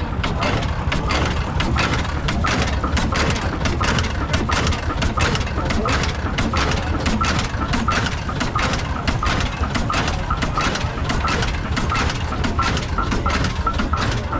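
The hot-bulb oil engine of an 1897 Hornsby-Akroyd traction engine running, with a fast, regular train of sharp knocks over a low rumble. A repeating metallic clatter joins in from about six seconds in.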